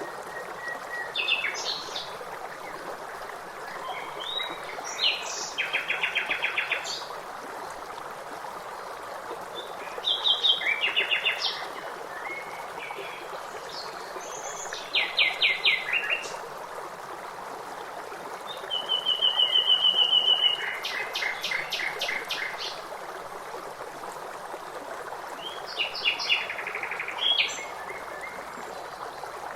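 Songbirds singing short phrases every few seconds, several ending in fast trills. Beneath them runs the steady rush of running water from a stream.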